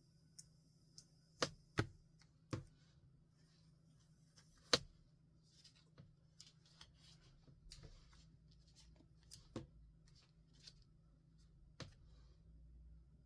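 Stationery being handled on a desk: a handful of sharp taps and clicks, the loudest about five seconds in, with soft paper rustling and scratching in between.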